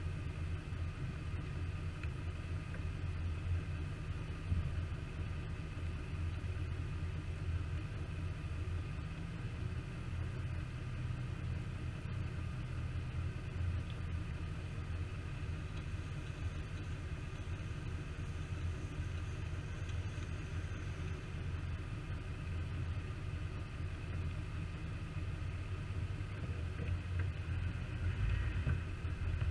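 Jeep engine running steadily at low revs, a deep steady rumble that grows a little louder near the end.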